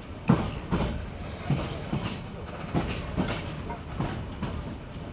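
Train wheels clacking over rail joints, the knocks coming in pairs about every second and a quarter, over a steady running rumble, heard from inside a moving passenger carriage.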